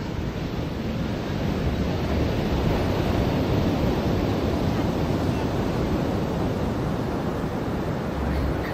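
Ocean surf washing onto a beach: a wave swells in about a second in, peaks around three seconds and slowly eases off. Some wind rumble on the microphone.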